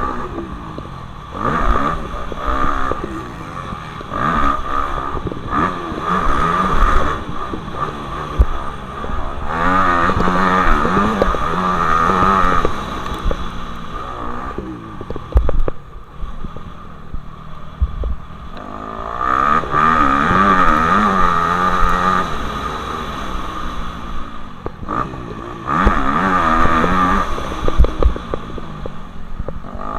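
Motocross bikes on a track, their engines revving up and falling back over and over as they pass, with the loudest passes about a third of the way in and just past the middle.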